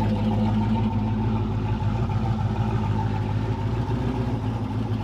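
Turbocharged engine of a modified Pontiac Grand Prix running steadily at idle, loud and low-pitched.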